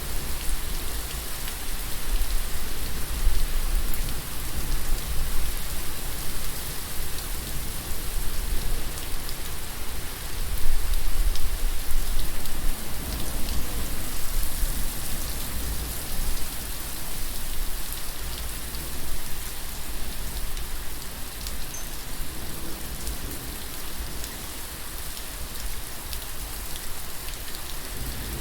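Steady rain falling and pattering on surfaces, with fine drop ticks and a low rumble underneath; slightly louder about ten to twelve seconds in.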